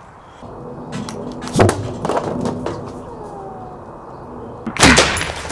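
Two sharp bangs, a lighter one about a second and a half in and a louder one near the end, each dying away with a ringing tail, like the shot of a homemade PVC potato cannon fired with hairspray fuel and a barbecue lighter.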